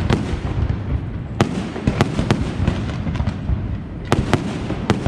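Fireworks display: about six sharp shell reports cracking out over a continuous low rumble of bursting fireworks.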